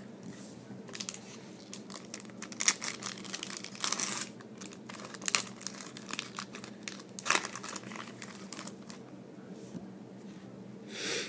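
Hockey trading cards and their foil pack wrapper being handled by hand: irregular crinkling, with short rustles and snaps of card stock.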